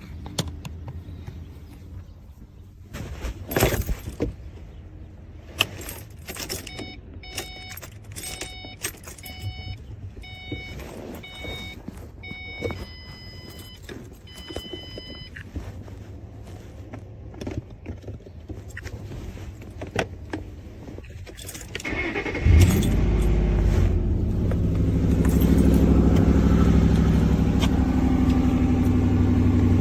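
Clicks and a key jangle inside a car, then an electronic warning chime beeping about eight times in a row and ending in a few longer tones. About 22 seconds in the car's engine cranks, catches and settles into a steady idle.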